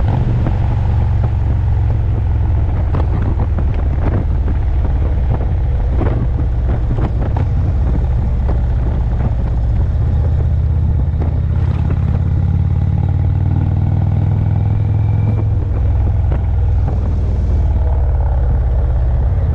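V-twin cruiser motorcycle engine running steadily while riding, a continuous low drone.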